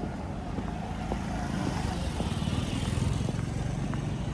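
A road vehicle passing by, swelling to its loudest about three seconds in and then fading.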